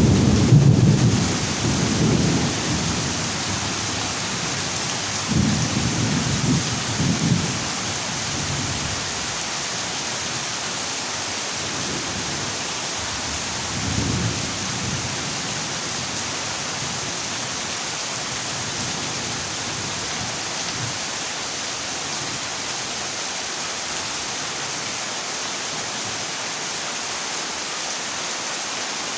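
Heavy rain falling steadily on a corrugated zinc roof, with thunder rumbling at the start, again about five to seven seconds in, and once more briefly around fourteen seconds in.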